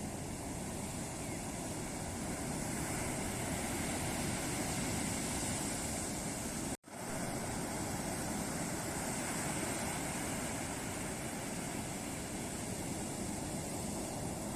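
Ocean surf breaking and washing up a beach, a steady rushing noise. It cuts out completely for an instant about seven seconds in, then resumes.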